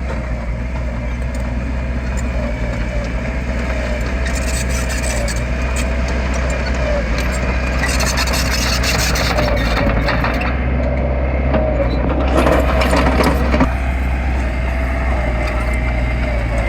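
Diesel engine of heavy earthmoving machinery running steadily. A few short stretches of rattling and scraping come over it, the loudest about two-thirds of the way in.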